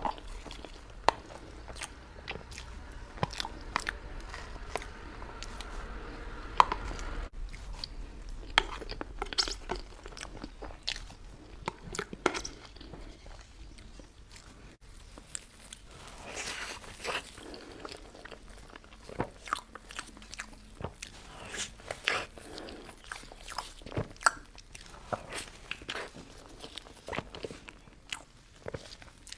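Close-miked chewing of soft cake desserts, with many sharp, irregular mouth clicks and smacks and a short lull about halfway through.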